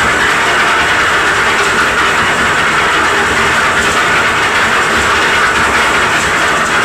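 Concrete mixer's engine running steadily under load, with a continuous rattly mechanical din.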